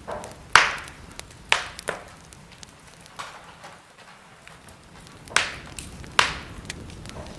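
Wood fire crackling: about five sharp pops, two close together early on and two more about five and six seconds in, among scattered faint ticks over a soft steady hiss.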